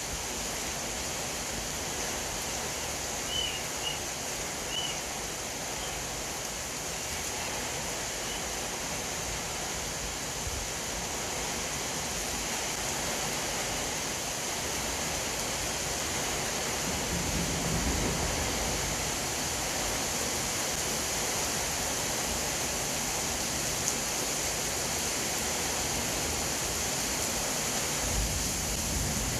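Steady rushing noise, with a few brief high chirps about three to five seconds in.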